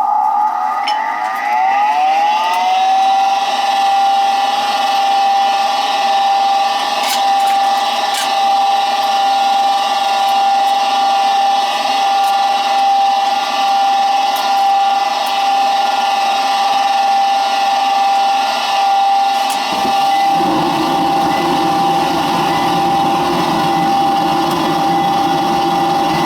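York 90+ gas furnace's draft inducer motor spinning up to speed, rising in pitch over the first couple of seconds, then running with a steady whine. About twenty seconds in, a lower rushing sound joins it.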